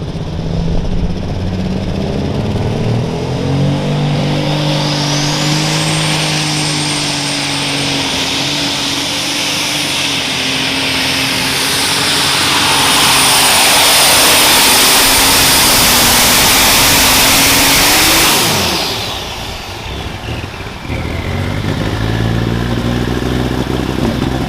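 Light super stock pulling tractor's alcohol-burning engine at full throttle pulling the sled, with a high turbo whistle that climbs about five seconds in and holds. Around eighteen seconds in the engine is shut down and its pitch falls away quickly, then it runs low again near the end.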